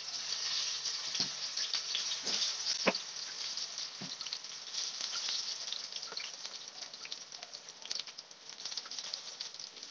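Turmeric-coated eggplant slices sizzling and crackling as they fry in hot oil in a frying pan, with a few sharper pops in the first few seconds as the last slices go in.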